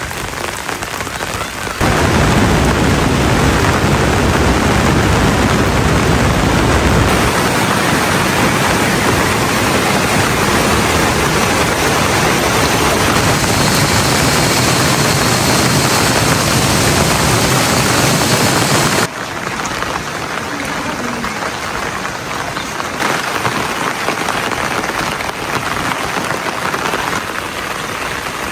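Heavy rain falling in a steady hiss. It jumps abruptly louder about two seconds in and drops back abruptly a little past the middle.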